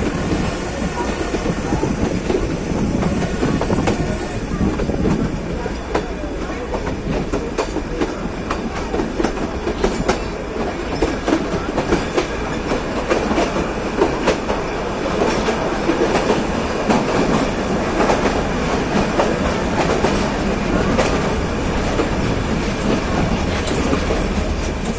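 Nilgiri Mountain Railway train running, a steady rumble of the coaches with wheels clacking irregularly over the rail joints.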